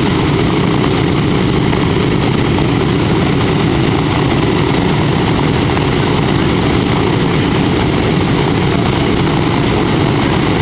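A B-17 bomber's Wright R-1820 Cyclone radial engines running steadily, loud and even with no change in pitch.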